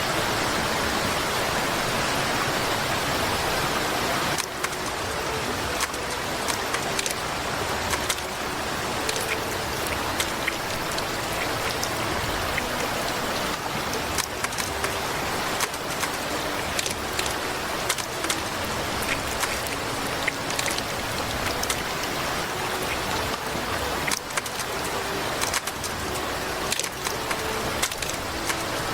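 Flowing water with many small splashes and drips. The sound shifts a little about four seconds in.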